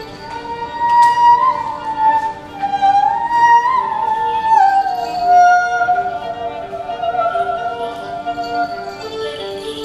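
Live classical-style music: a soprano voice sings a high melody with vibrato on a long held note, over a repeating lower violin figure.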